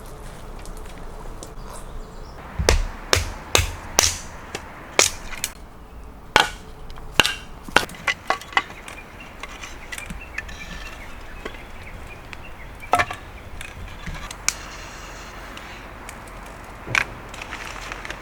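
Firewood being split into kindling: a quick run of about a dozen sharp wooden knocks, then two single knocks further apart.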